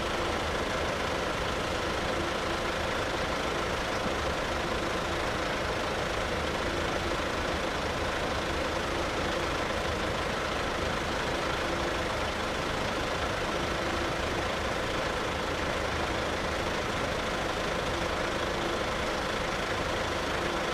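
Steady hum of idling road vehicles, with no distinct strikes or passing events.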